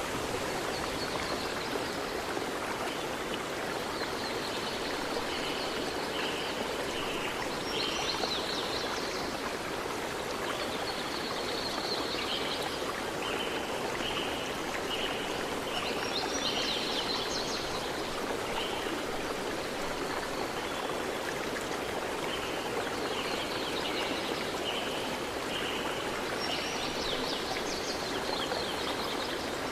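River stream rushing steadily over rocks, with a bird repeating short, high calls throughout.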